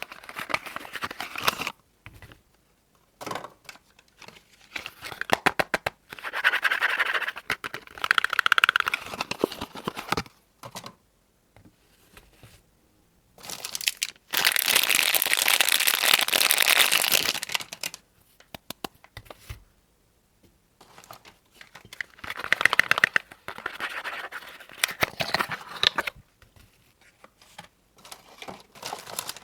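Soap packaging being unwrapped close up: the wrapper crinkles, crackles and tears in bursts with short pauses between. The longest and loudest stretch of crinkling comes about halfway through.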